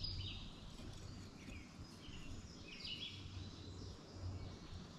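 Faint outdoor background with a low steady rumble and several short bird chirps scattered through it.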